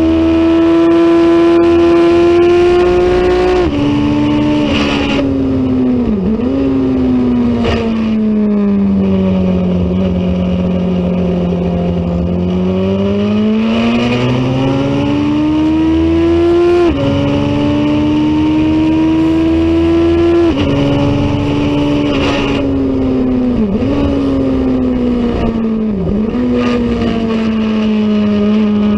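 Racing motorcycle engine at race pace. The pitch climbs and drops sharply at each upshift, then falls away under braking, with quick revving blips at the downshifts, before climbing again through the gears.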